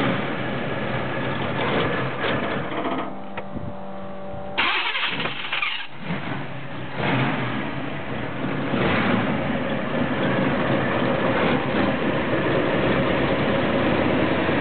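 1990 Pontiac Trans Am engine at its first start-up, running unevenly while being given gas, then settling into a steadier, slightly louder run from about seven seconds in.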